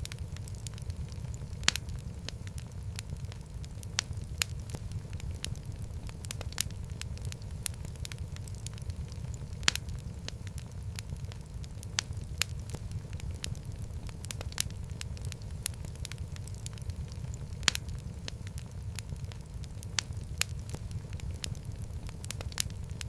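Wood fire burning in a fireplace, with a steady low rumble of the flames and sharp crackles and pops scattered through it, a few every second, some much louder than the rest.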